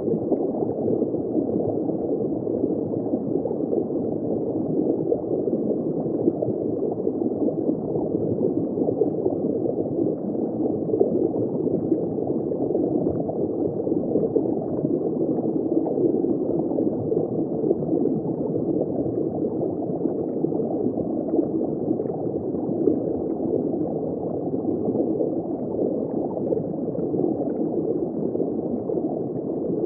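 Steady, muffled underwater bubbling and gurgling, heard from just below a shallow water surface.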